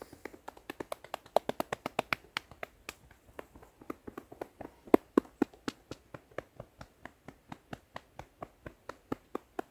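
Hands gently patting the body in a quick, even rhythm of about five to six light pats a second, as a self-patting wake-up exercise.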